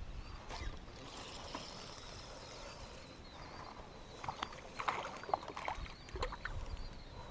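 Water sounds and sharp clicking knocks around a kayak, clustered in the second half, over a faint high repeating chirp.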